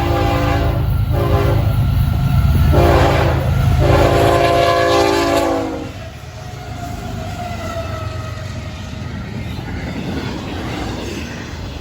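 Air horn of a Florida East Coast Railway intermodal train's lead GE ES44C4 diesel locomotive sounding a series of blasts, the last the longest, its pitch dropping as the locomotive passes. The horn stops about six seconds in, leaving the rumble of the diesel engines and the clickety-clack of the intermodal cars rolling by.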